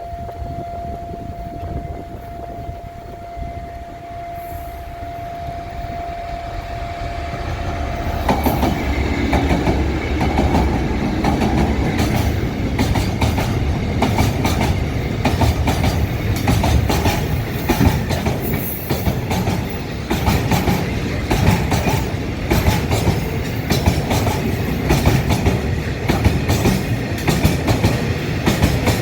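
A steady single warning tone sounds for the first eight seconds or so. Then a diesel-hauled train comes past close by, its engine rumbling and its wheels clattering over the rail joints, and this carries on loudly to the end.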